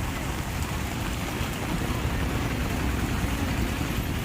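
Heavy rain falling steadily, with a steady low rumble underneath.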